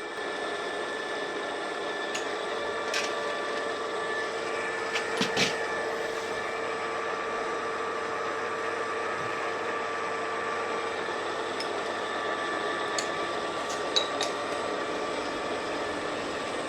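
Milling machine running with its spindle at 630 rpm, a steady multi-tone whine from the drive, with a few sharp ticks and clicks scattered through it.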